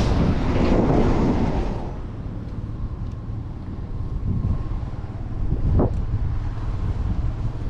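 Wind rushing over the microphone of a moving bicycle, with city road traffic rumbling underneath. The rush is loudest for the first two seconds, then eases.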